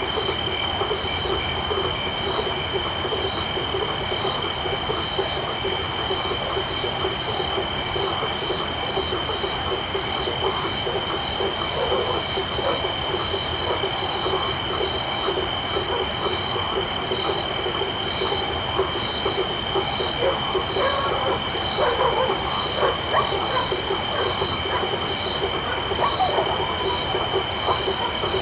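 Tropical night chorus of crickets and frogs: several steady high-pitched cricket trills held throughout, one of them pulsing about once a second in the second half, over a dense, continuous chorus of frogs calling.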